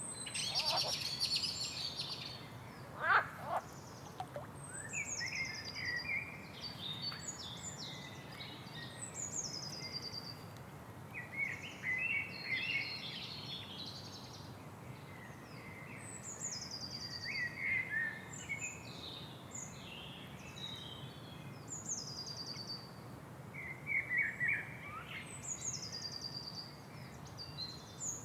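Several songbirds singing and calling over a steady low background noise, with high descending trilled phrases that recur every few seconds among shorter chirps.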